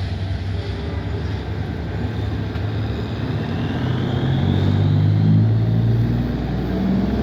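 Vehicle engines running, a steady low hum that grows louder in the second half, with a whine rising in pitch a few seconds in.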